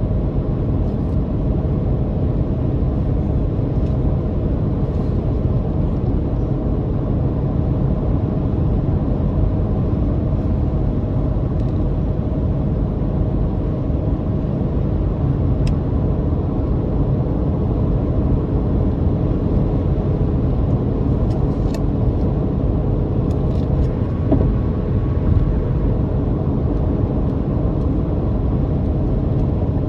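Car driving steadily: the motor's droning hum with road rumble, even throughout, with a few faint ticks about three-quarters of the way through.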